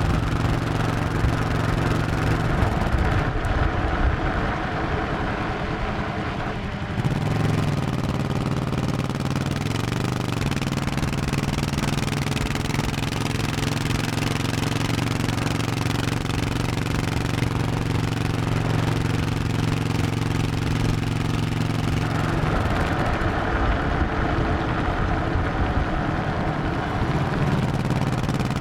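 1100cc V-twin motorcycle engine running under way, with a steady note. The throttle eases off about three seconds in and the engine picks back up suddenly around seven seconds, with a few more changes in pitch later.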